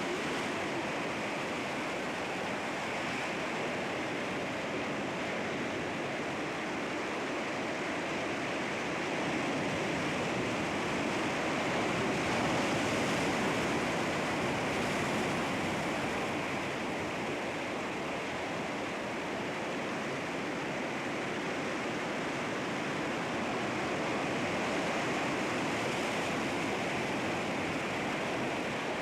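Sea waves washing against rocks: a continuous surf wash that swells a little about halfway through and again near the end.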